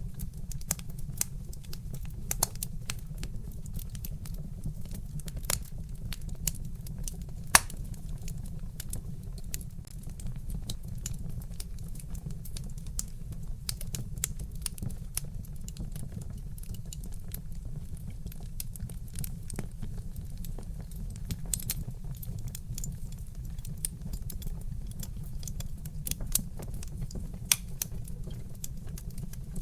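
Wood fire crackling: a dense, irregular run of small pops and snaps from burning logs over a steady low rumble, with one louder pop about seven seconds in.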